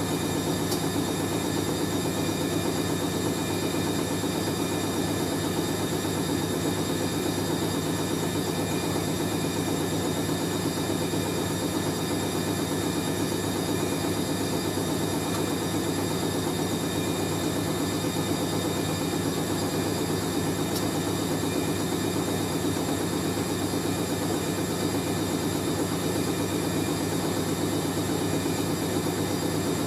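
Hoover A3060 Electronic 1100 washing machine spinning at a steady speed: an even rumble with steady high tones over it. The load is well balanced and the spin runs smoothly.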